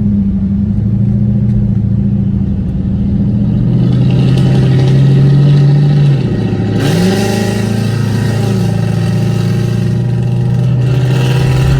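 Car engines running at idle, with one engine revving up and back down about seven seconds in.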